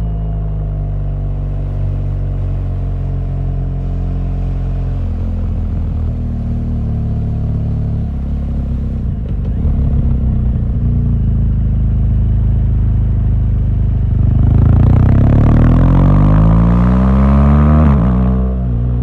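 BMW R1200GS boxer-twin engine running under way at a steady pitch. About three-quarters of the way through the revs climb, then drop off sharply near the end.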